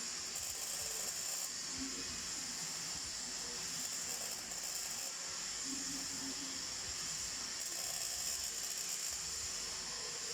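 MIG welding arc on steel, a steady, unbroken hiss.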